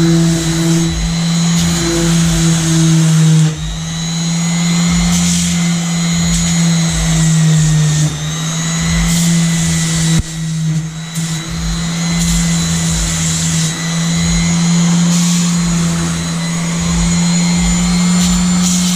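Electric power sander running steadily with a constant motor hum, sanding paint off an aluminium boat hull.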